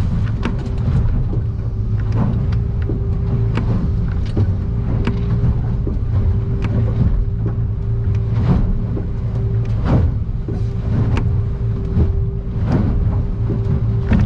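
Aluminium boat under power in rough water, heard from inside its cabin: a heavy steady rumble of engine and hull, with a steady whine coming in about half a second in. Frequent sharp knocks and splashes run through it as waves and spray hit the hull and windshield.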